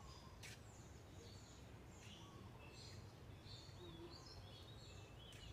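Faint bird chirps and short whistled calls, many of them in quick succession, over a low steady rumble, with a single click about half a second in.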